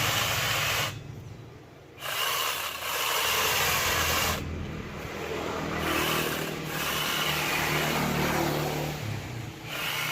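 An angle grinder fitted with a chainsaw adaptor, running and sawing into wood. The sound drops away briefly about a second in and dips a few more times.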